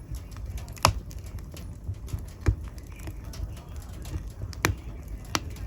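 Wood fire burning in a fireplace: irregular crackling with a few sharp pops over a low steady rumble of the flames.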